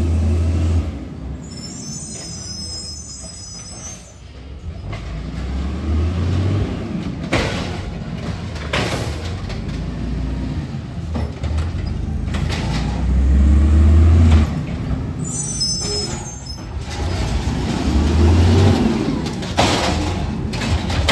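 Garbage truck's diesel engine running and revving unevenly, with several short hissing surges and two brief high-pitched squeals.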